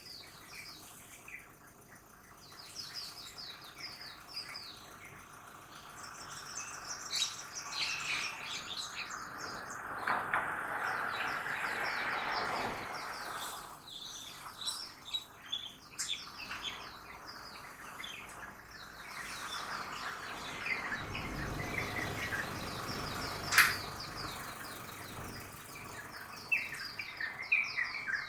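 Many small birds chirping and twittering together in the early morning, with city traffic swelling and fading in the background twice. A single sharp click comes near the end.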